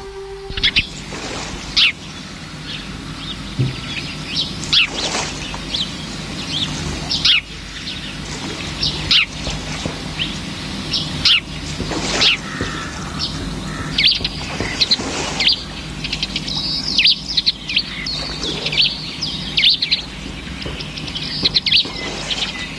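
Small birds chirping: many short, sharp calls, scattered irregularly and sometimes in quick clusters, over a steady low hum.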